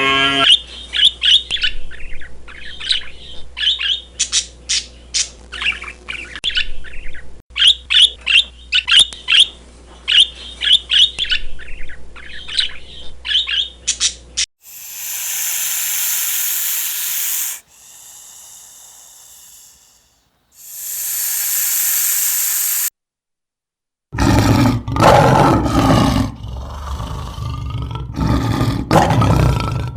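Birds chirping in quick, repeated high calls for about the first half, then several bursts of rushing noise, a brief silence, and a loud, deeper stretch of sound near the end.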